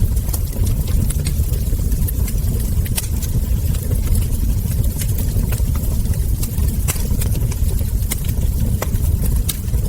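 Wood fire burning: a steady low rumble of flames with irregular sharp crackles and ember pops scattered throughout.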